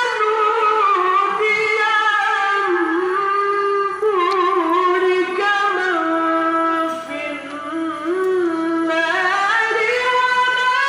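A male qari's solo Qur'an recitation (tilawah) in a high register, in long, ornamented, melismatic phrases with sustained notes, in the style of maqam Rast.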